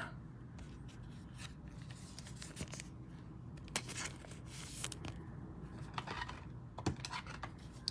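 Trading cards and pack wrappers being handled close to the microphone: faint sliding, rubbing and scraping with a few soft clicks, and a short rasp about halfway through.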